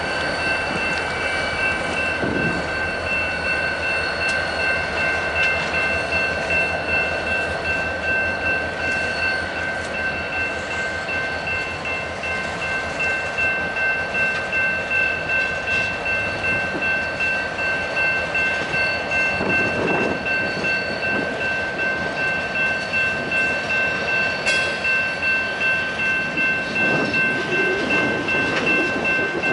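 Freight train cars rolling past, with a rhythmic clatter of wheels over the rails and steady high-pitched tones held above it.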